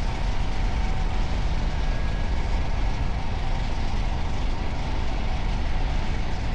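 Steady riding noise from a moving motorcycle: a constant, rumbling rush of wind and road with the engine running underneath.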